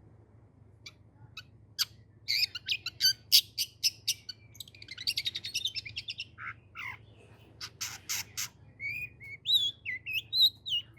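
Long-tailed shrike (cendet) singing a rapid, varied song of sharp notes. After a few scattered notes it breaks into a fast run of calls with a buzzy trill in the middle, then loud sharp calls and slurred whistles near the end.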